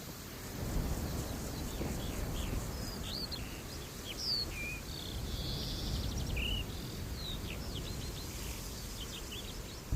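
Birds calling in many short chirps and whistles, some sliding up or down in pitch, over a steady low rumble.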